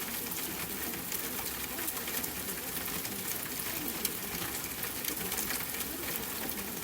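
Steady rain-and-fire ambience: an even hiss with frequent small, irregular crackles like burning embers.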